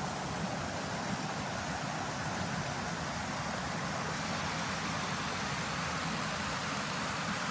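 Steady rushing of water from a woodland stream or waterfall, an even hiss with no breaks.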